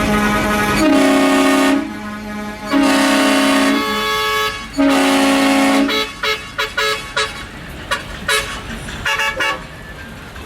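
Truck horn sounding: a held note stops just under a second in, then three long blasts of about a second each at a higher pitch, then a quick run of short toots.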